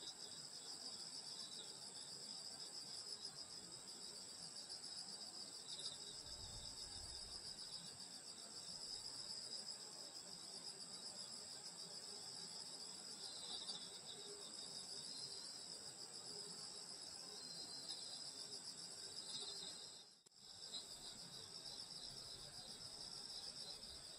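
Night chorus of grass insects trilling steadily in several high-pitched layers, with faint separate chirps underneath. The chorus cuts out for a moment about twenty seconds in.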